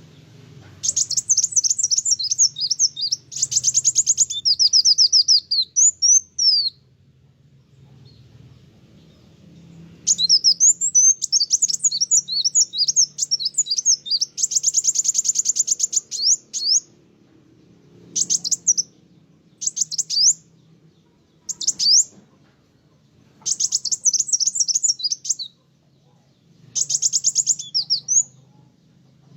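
A kolibri wulung sunbird singing in full, rapid song: high-pitched trills and chattering phrases in long bouts, then shorter bursts with pauses between.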